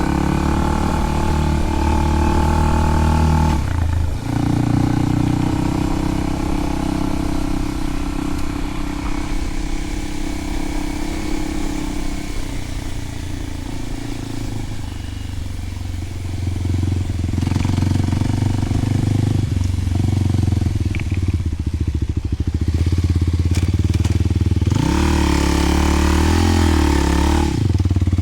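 Kawasaki KLX300 single-cylinder four-stroke engine running through a Delkevic 10-inch oval slip-on exhaust while being ridden, on and off the throttle. There is a brief dip about four seconds in, a quieter coasting stretch in the middle, and near the end the revs climb and fall again.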